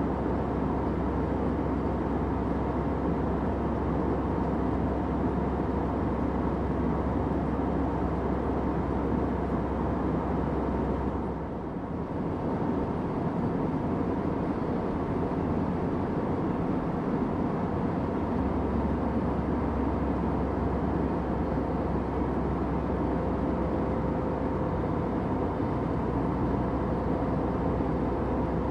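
Steady cabin noise of an airliner in flight, an even rushing sound with a low rumble under it, dipping briefly about twelve seconds in.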